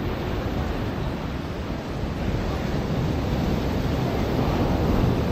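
Ocean surf washing onto a beach as a continuous wash of noise that swells slowly, loudest near the end, with a low rumble of wind on the microphone.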